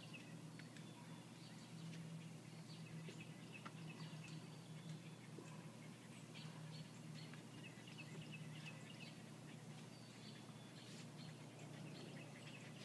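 Faint birds chirping intermittently in the background, short high chirps scattered throughout, over a low steady hum.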